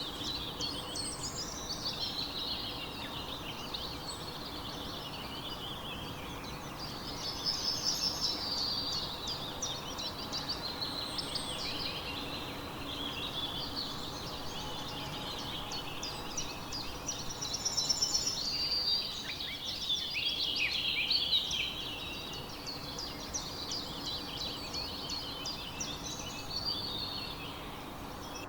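Many small birds chirping and twittering together in a dense, overlapping chorus of quick high notes and short trills, busiest a little past the middle.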